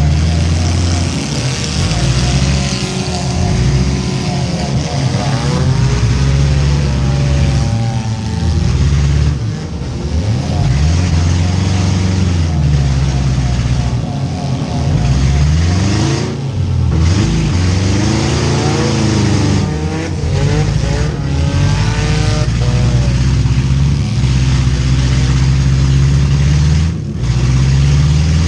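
Several four-cylinder demolition derby cars' engines running hard, their pitches rising and falling repeatedly as they rev, over a steady wash of noise.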